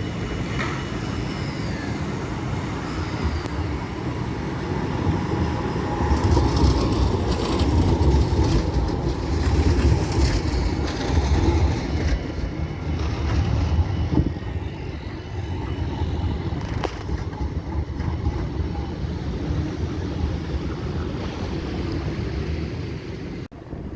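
A tram running on street rails: a rumble that builds to its loudest in the middle and then eases off, with a few sharp clicks from the wheels and track.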